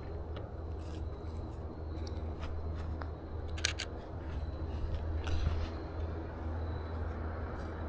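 Steady low rumble on the microphone with a few scattered light clicks. About three and a half seconds in comes a sharp double click from the shutter of a Canon EOS RP camera as a photo is taken.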